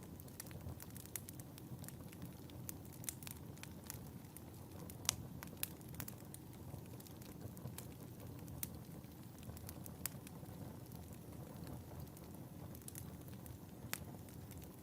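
Wood fire burning in a fireplace: a steady low rumble of flames with irregular sharp crackles and pops, the loudest pop about five seconds in.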